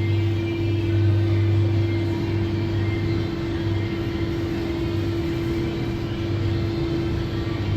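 Electrolux stacked commercial tumble dryer running in the last minute of its cycle: a steady drone from the fan and turning drum, with a constant mid-pitched hum and a deeper hum beneath it.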